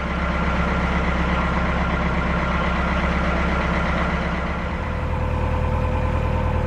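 A narrowboat's inboard engine running steadily under way. Its note changes about five seconds in.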